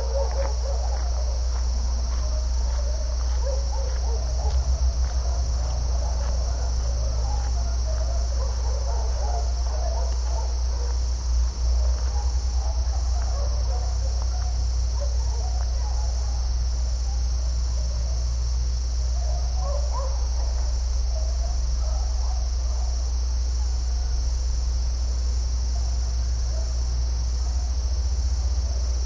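A steady, high insect chorus of crickets, with scattered chirping calls in the middle range and a constant low rumble underneath. A brief knock about eleven seconds in.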